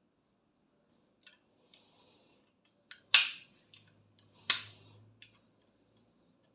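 Two sharp snaps from a hand tool at work, about a second and a half apart, with a few lighter clicks and a faint low hum around the second snap.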